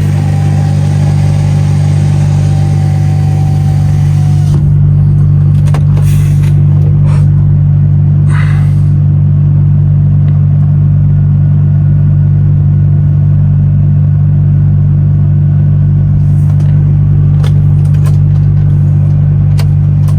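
DAF XF truck's diesel engine droning steadily as heard from inside the cab, with a high hiss over it that drops away about four and a half seconds in.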